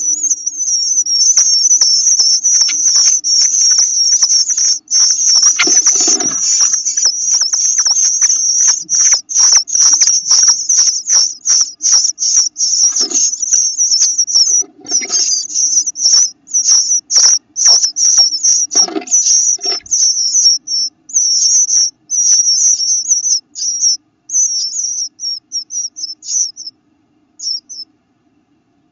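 Eastern bluebird nestlings, eyes just starting to open, peeping in a dense, high-pitched chorus that later breaks into separate peeps and trails off near the end. A faint low hum and a few soft thumps lie underneath.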